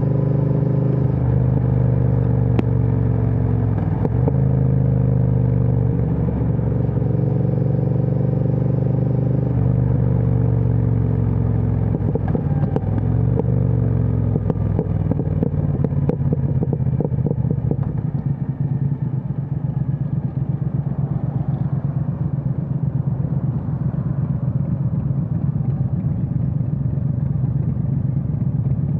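Triumph Speed Twin 1200's parallel-twin engine through a Vance & Hines aftermarket exhaust, running steadily under way with small rises and falls in pitch. About halfway through, the clear engine note gives way to a lower, pulsing rumble.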